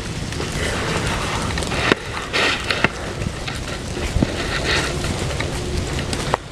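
Ice crystals falling from the trees: a steady crackling patter of many small ticks, like light rain, with a few louder clicks.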